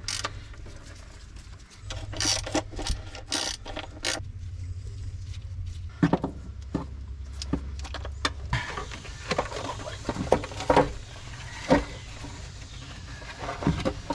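Hand tools clicking and clanking on metal as the valve covers come off a Ford FE big-block V8, many separate sharp knocks over a low steady hum.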